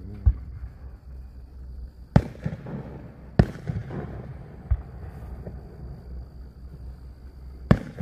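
Aerial fireworks shells: a dull launch thump just after the start, then several sharp bangs of shells bursting, the loudest near the end, each followed by a rumbling echo.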